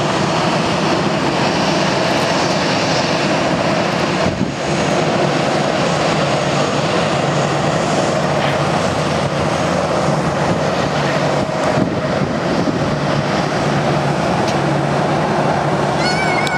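Bombardier Dash 8 Q400 turboprop landing, its two turboprop engines and propellers giving a loud, steady drone with a low hum beneath.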